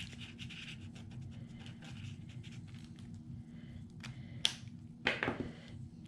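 Felt-tip marker scratching in quick strokes across a small wooden leaf embellishment as it is coloured dark blue, over a steady low hum. A sharp click comes about four and a half seconds in, and a brief rustle just after five seconds.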